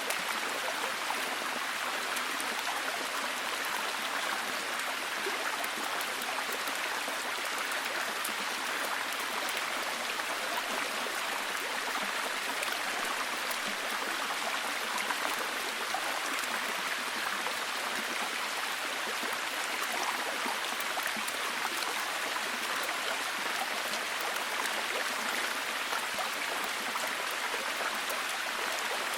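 Steady heavy rain: a dense, even hiss of drops with fine ticks of individual drops on top, unchanging throughout.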